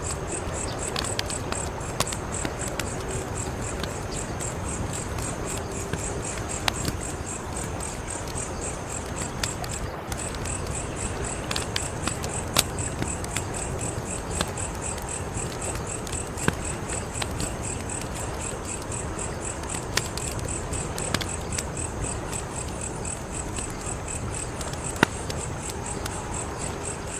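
Fire crackling, with sharp irregular pops over a steady low rush, while crickets chirp in a steady, high, pulsing chorus.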